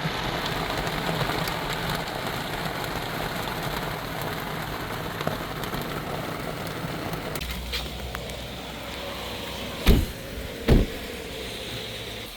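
Heavy rain pouring on a car, with the engine idling. About two-thirds of the way through the noise changes, and two loud thumps come about a second apart: car doors shutting.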